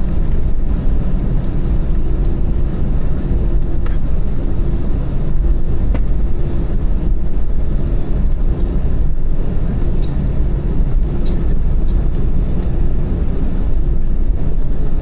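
Inside the cabin, the Airbus A321-231's IAE V2500 engines and the airframe give a loud, steady low rumble. A faint steady hum comes and goes over it, and there are a few light clicks and rattles.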